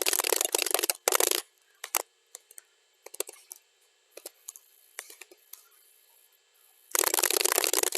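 Computer keyboard typing played at double speed: a dense run of rapid keystrokes, then a pause of about five seconds broken by a few scattered key clicks, and fast typing starts again about seven seconds in.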